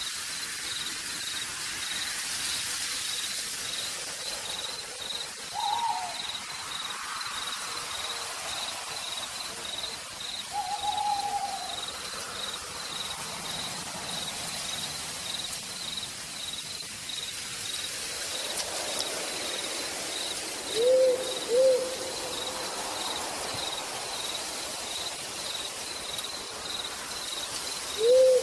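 Steady rain falling in a forest at night, with an insect chirping in a regular pulse throughout. An owl hoots several times, ending with two pairs of short hoots.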